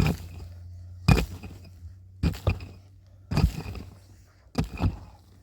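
Repeated heavy blows, about one a second, some coming in quick pairs.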